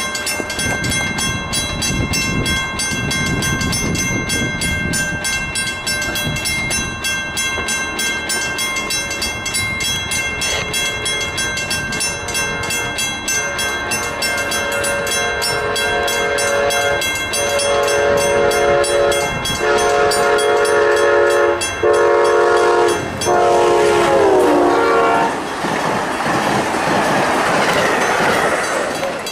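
A grade-crossing bell rings steadily with even, rapid strokes as an Amtrak passenger train approaches. From about halfway in, the diesel locomotive's horn sounds a series of blasts, long ones with one short, and the last drops in pitch as the locomotive passes close. Near the end, the passenger cars' wheels make a loud, steady noise on the rails as they roll by.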